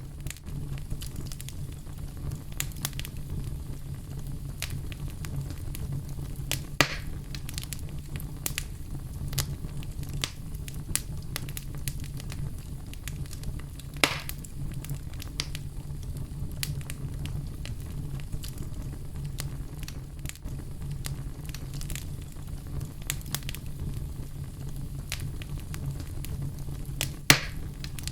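Wood fire burning in a fireplace: a steady low rumble of flames with constant light crackling and three sharper pops, about 7, 14 and 27 seconds in.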